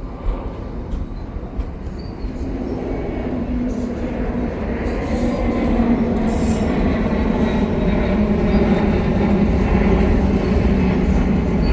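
Long freight train of double-stack and auto-rack cars rolling past, a steady rumble of steel wheels on rail with a steady low hum, growing louder about two seconds in and then holding.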